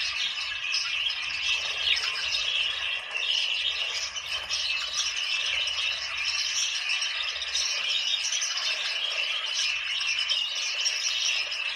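A flock of budgerigars chattering, many birds calling over one another without a pause.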